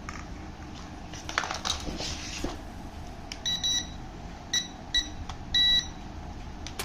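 Short electronic beeps from a battery-powered RC toy or its remote: about five, the last held longer, preceded by a few light clicks.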